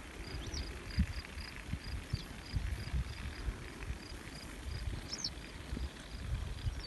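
A cricket chirping steadily, about three short high chirps a second. A few brief bird chirps and irregular low rumbles and thumps sound along with it.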